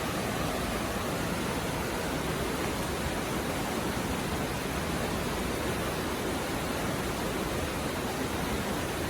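Steady rushing of a shallow mountain river flowing over stones, an even, unbroken wash of water noise.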